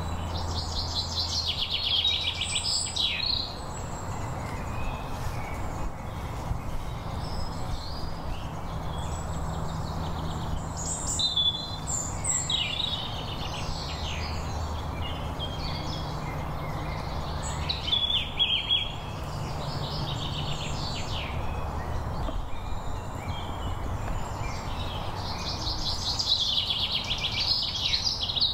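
Woodland songbirds singing: four bursts of rapid, high trilling song, each a second or two long, spaced several seconds apart, over a steady low rumble.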